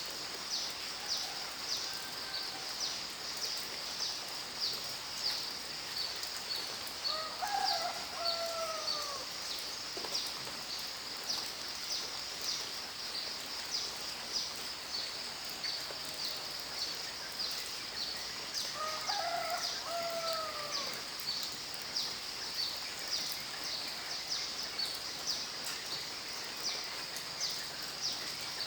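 Steady hiss of rain under a high insect chirp repeating about two to three times a second. Twice, about 8 and 20 seconds in, a bird gives a longer call that rises and then falls in pitch.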